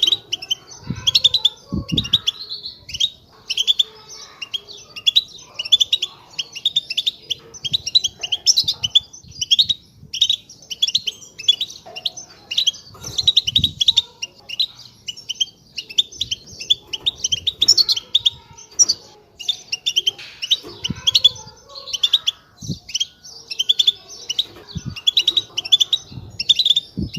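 European goldfinch giving a continuous stream of rapid twittering chatter calls, quick chirps packed closely together, with occasional faint low thumps. This is the kind of chatter used to stir a silent caged goldfinch into song.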